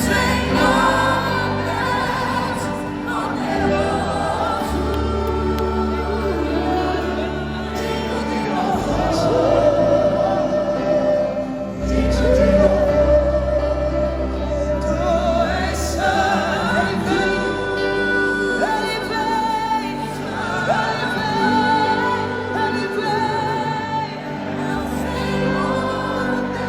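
Live gospel music: a woman singing with a band and a sustained, deep bass.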